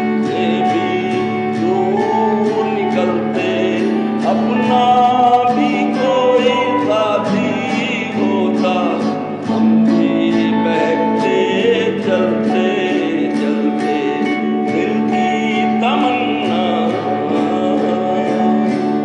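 Acoustic guitar strummed in a steady rhythm under a voice singing a wavering, ornamented melody.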